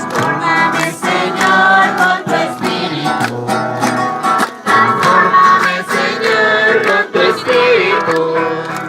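Group of singers with a guitar performing a hymn in Spanish; the guitar is strummed in a steady rhythm.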